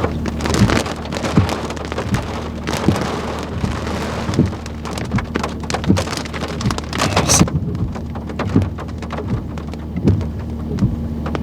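Raindrops striking a hard surface in irregular, sharp hits, over a steady low hum.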